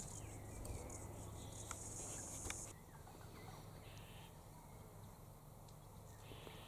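Faint, steady high-pitched insect trill that stops about two and a half seconds in, followed by two brief, fainter buzzes.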